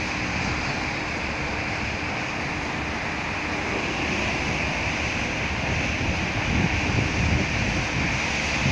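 Steady rain falling, an even hiss with low rumbles coming and going in the second half.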